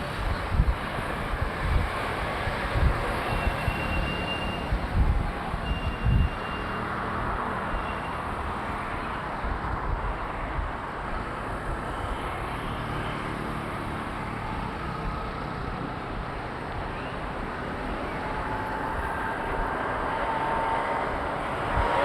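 Road traffic noise: a steady wash of passing vehicles, with low thumps on the microphone in the first six seconds.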